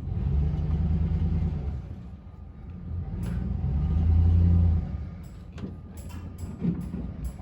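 New Holland tractor engine running, its revs swelling twice and loudest just before it drops back about five seconds in. A few sharp knocks follow near the end.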